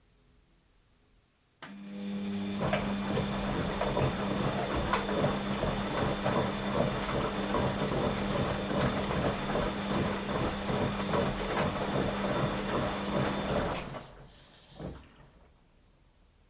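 Washing machine running in a burst of about twelve seconds: a steady motor hum with dense rattling and clatter that starts suddenly a couple of seconds in and stops, followed by a single short knock.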